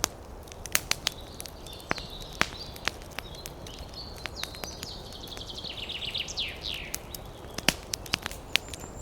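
Wood fire crackling, with irregular sharp pops and snaps over a steady low hiss. Thin high whistling tones come and go, with a quick run of falling chirps in the middle.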